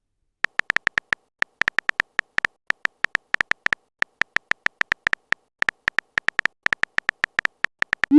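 Phone keyboard typing sound effect: a rapid, uneven string of short tapping clicks, several a second, with brief pauses.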